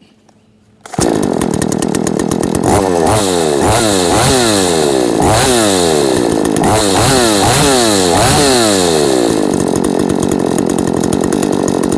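Ross 38 cc two-stroke chainsaw starting about a second in, then revved up and down about ten times in quick blips before running at a steadier speed. The engine runs fine.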